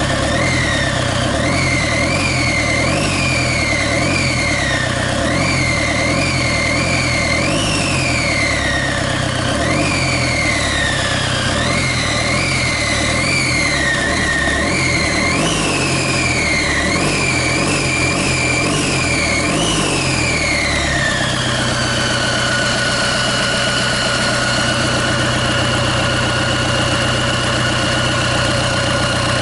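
Kia Bongo J3 four-cylinder diesel engine running out of the vehicle on a test run for an oil-pressure check, revved in a series of quick throttle blips for about twenty seconds, then dropping back to a steady idle.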